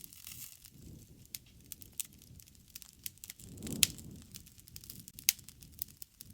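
Campfire burning and crackling: scattered small pops over a low rush of flame, with one louder pop a little before four seconds in and another sharp one just after five seconds.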